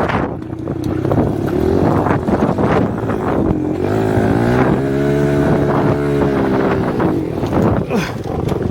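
A dirt bike engine running; about four seconds in it revs up, holds steady for roughly three seconds, then drops back. Wind buffets the bare microphone throughout.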